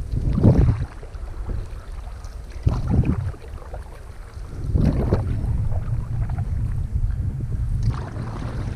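Single-blade canoe paddle pulling through the water in slow, even strokes, about four splashy strokes two to three seconds apart, over a steady low rumble of wind on the microphone.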